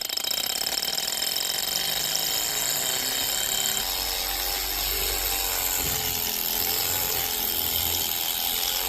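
Small toy Stirling engine running, its moving parts making a steady, rapid mechanical clatter.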